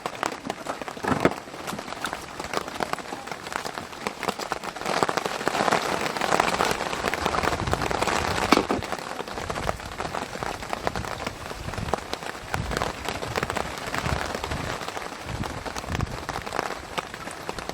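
Rain pattering on a surface as a dense stream of small drop ticks, growing heavier for a few seconds in the middle.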